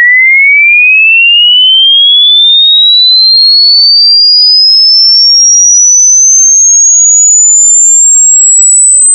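Electronic test tone, a single pure sine wave sweeping steadily upward in pitch from a high whistle to a very high, piercing tone, played as a hearing test of how high a pitch the ear can still hear.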